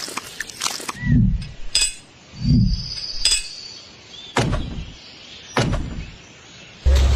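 Light clinks and knocks, with a couple of dull thuds, from small cement bricks and tools being handled and set in place. Near the end a loud, steady low rumble starts suddenly.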